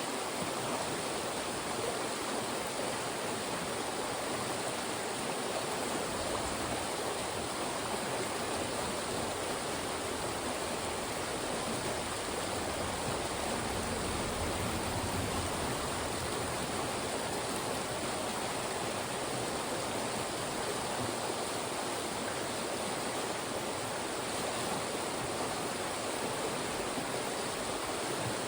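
Fast-moving mountain stream rushing through funnels of rocks, a steady, even water noise.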